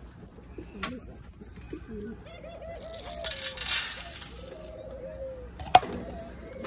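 Pigeons cooing in a loft, several wavering coos in a row. A rustling burst comes about three seconds in, and there is one sharp click near the end.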